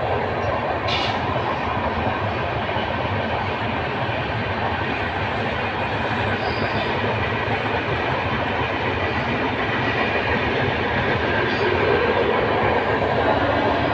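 Indian Railways passenger train, hauled by an electric locomotive, running past with a steady rumble of wheels on the track that grows a little louder near the end.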